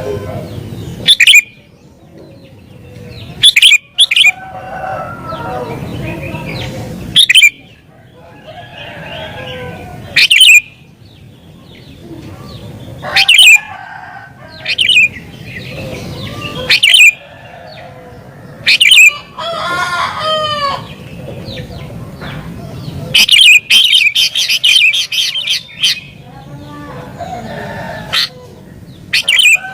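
Sooty-headed bulbul calling loudly in short, sharp, repeated notes every second or two, with a quick rapid run of calls about two-thirds through. Softer bird calls and a low murmur carry on underneath.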